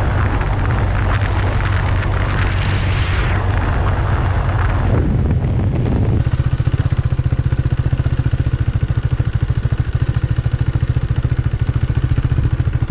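KTM Duke 390's single-cylinder engine under wind and road noise as the motorcycle rolls and slows down. About six seconds in the rush drops away and the engine idles with a steady, fast, even pulse.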